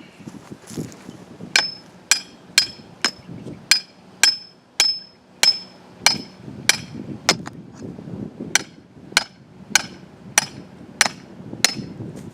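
Hammer blows, about seventeen strokes at a steady pace of roughly two a second, each with a bright metallic ring, with a brief pause about two-thirds of the way through.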